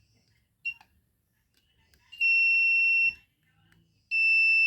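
Electronic beeper sounding one steady high tone: a short blip, then two longer beeps of about a second each.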